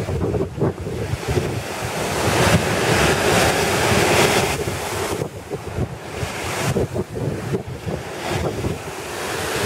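Wind-driven lake waves breaking and washing against the shore at high water, with strong wind buffeting the microphone. A louder rush of surf builds from about two seconds in and eases off around four and a half seconds.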